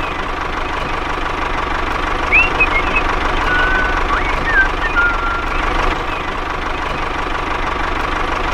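A tractor engine running steadily at idle, the engine sound of a toy tractor. A few short, high chirps come over it about two to five seconds in.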